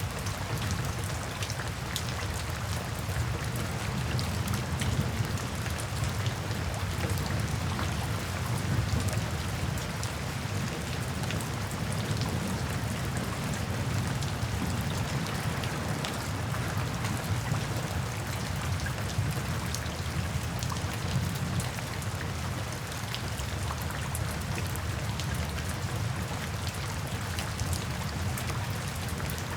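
Steady rain falling, with many individual drops ticking on a surface, over a soft, low rumble of distant thunder that swells and fades.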